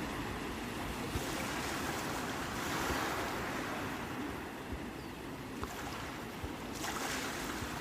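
Sea waves breaking, a continuous rush of surf that swells about a second in, around three seconds in, and again near the end.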